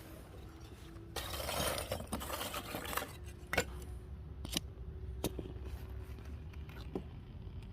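Charcoal lumps being added to a grill: a rustling pour for a couple of seconds, then several separate hard clinks as pieces knock together.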